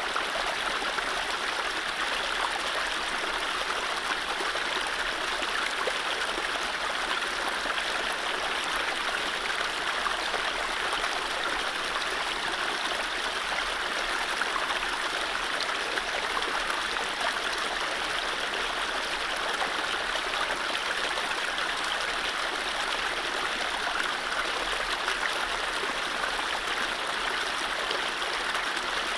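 A gentle mountain stream flowing over low rapids: a steady, even rush of running water, with no birdsong.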